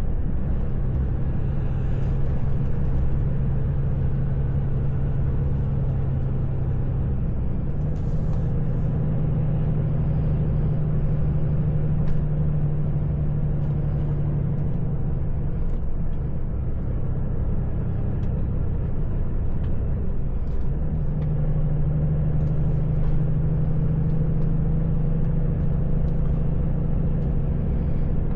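Volvo truck's diesel engine heard from inside the cab, pulling uphill in a steady drone. Its pitch steps up about eight seconds in, drops back about halfway through, and rises again near the end.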